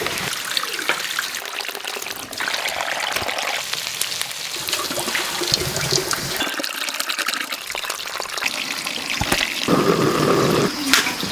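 Running, trickling water with scattered small clicks and knocks; the water grows louder for about a second near the end.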